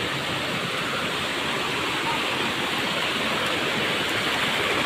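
A waterfall's water crashing and rushing in a steady, dense roar of noise.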